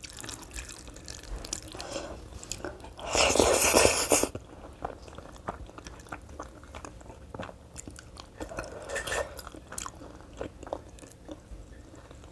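A person eating close to the microphone: chewing and biting with small crunches and wet mouth clicks, and a louder, noisier burst of about a second roughly three seconds in.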